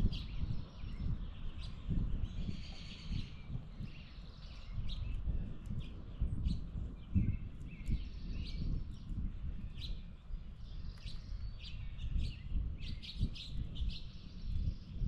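Birds calling with many short chirps throughout, over a steady low rumble.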